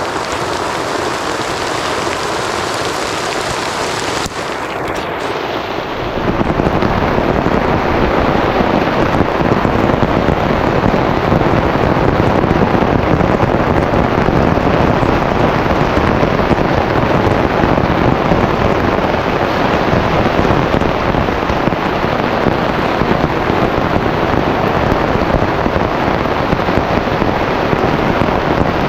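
Heavy rain pouring steadily, growing louder and fuller about six seconds in.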